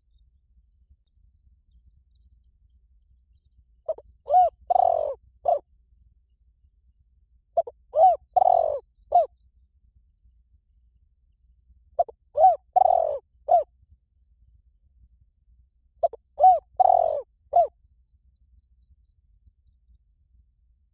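Spotted dove cooing: four alike phrases about four seconds apart, each a quick run of short coos around a longer, falling middle note.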